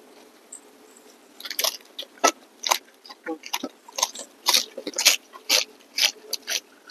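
Close-up eating sounds: people chewing mouthfuls wrapped in fresh lettuce and herbs, with crisp crunches and wet mouth smacks. Quiet at first, then the bites and chews come about twice a second from about a second and a half in.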